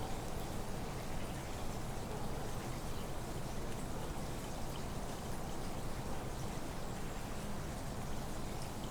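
Water sounds: a steady rushing hiss with scattered light drip-like ticks, typical of rain falling on forest foliage or of running water.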